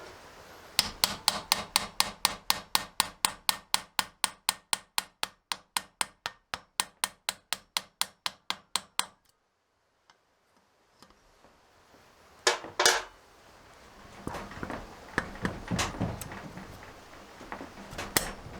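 A hammer tapping in a rapid, steady rhythm of about five blows a second for roughly eight seconds, the blows growing gradually softer, as work goes on freeing a seized Honda lawnmower engine. After a short pause come a sharp double knock and scattered clinks of tools being handled.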